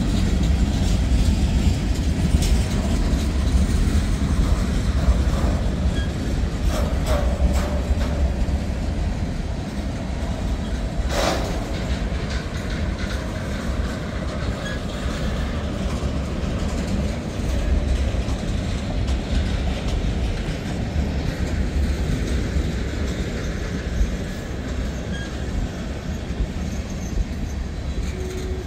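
Freight cars of a CSX manifest train rolling past: a steady rumble and clatter of wheels on rail, with a few sharp clanks, the loudest about eleven seconds in. The rumble eases slightly toward the end.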